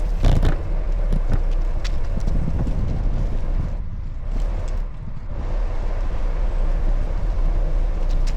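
Wind buffeting the microphone along with rolling road noise from a bicycle ride, with a few faint clicks. It eases briefly about four to five seconds in.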